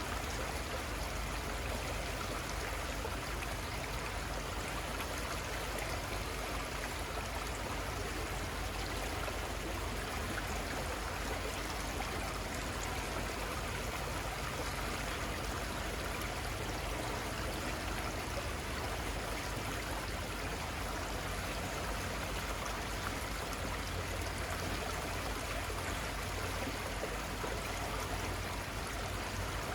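Steady rush of a river's flowing water, even and unbroken throughout.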